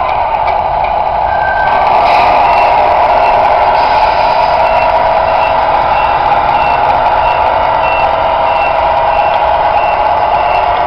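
Sound unit of a Tamiya 1/14 radio-controlled truck playing a steady diesel engine sound, with a reversing beeper starting about three seconds in and sounding about three times every two seconds as the model truck backs up.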